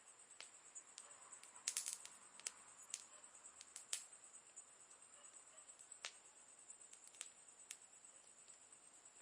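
Campfire crackling softly: wood burning with scattered sharp pops, and a quick run of pops a little under two seconds in.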